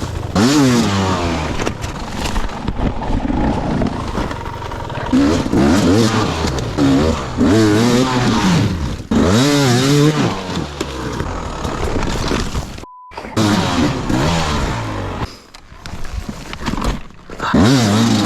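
Dirt bike engine revving up and down again and again, its pitch rising and falling with the throttle. The sound breaks off sharply for a moment about thirteen seconds in.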